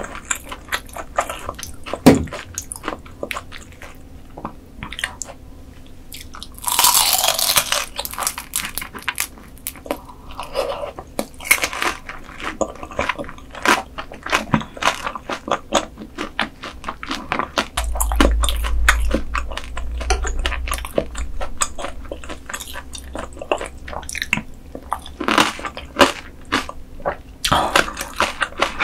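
Close-miked eating: a person chewing and crunching food in the mouth, with many sharp little clicks of biting and chewing. A louder, crisper crunch comes about seven seconds in and again near the end.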